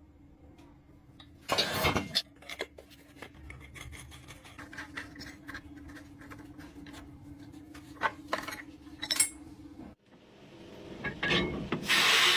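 Metal tools and engine parts clinking, knocking and scraping, with a few louder knocks and a faint steady hum under them. The sound cuts off abruptly about ten seconds in, and a rising hiss follows.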